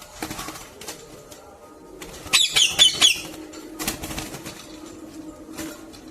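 Pet parrot giving a quick run of four sharp, high squawks about two and a half seconds in, among a few brief rustling noises.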